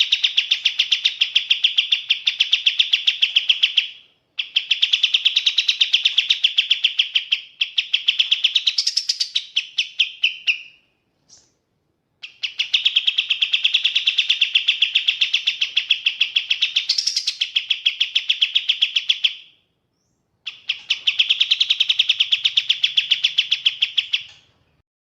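Kapas tembak songbird singing in long, rapid trills of repeated sharp notes, in four phrases of several seconds each, separated by short pauses.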